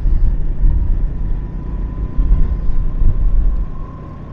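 Wind rumbling on the microphone of a moving motorcycle, with the ride's road noise under it; the low, gusty rumble eases near the end.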